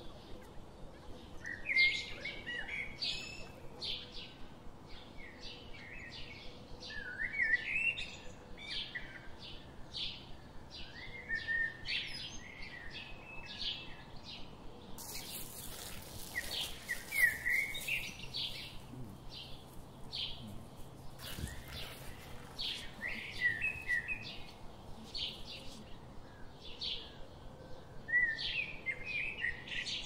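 Birds chirping and singing: short, repeated notes about twice a second, some sliding in pitch. There are brief noisy rustles partway through.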